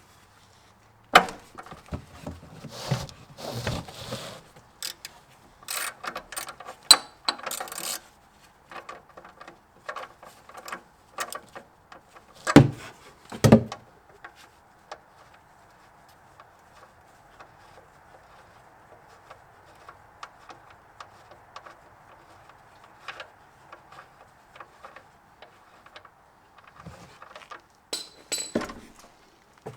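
Clinking and clattering of hard objects being handled, many short clicks and knocks in the first half, two heavier thumps about halfway, then a faint steady hum with a few ticks before more clatter near the end.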